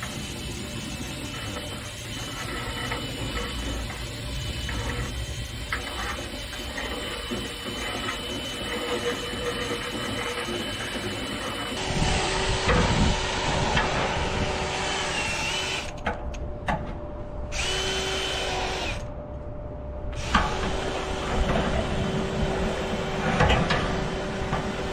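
Power drill spinning a rotary brush through a dryer vent duct: a continuous whir that gets louder and rougher about halfway through, with a couple of brief drops.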